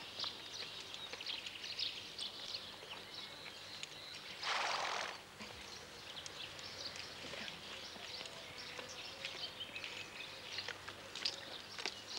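Birds chirping and calling throughout, with one short, loud rush of noise about four and a half seconds in.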